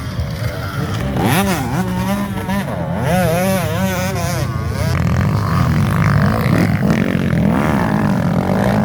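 Motocross dirt bike engines racing, the pitch swinging rapidly up and down as the throttle is worked, over a steady low drone of other bikes on the track.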